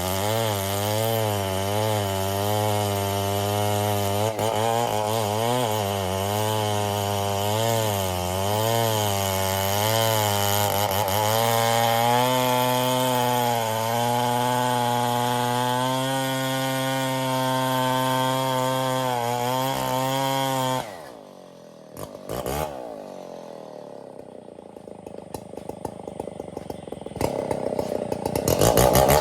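Stihl 070 two-stroke chainsaw running hard while cutting, its engine pitch wavering under the load. About two-thirds of the way through it drops suddenly to a much quieter idle, then revs back up near the end.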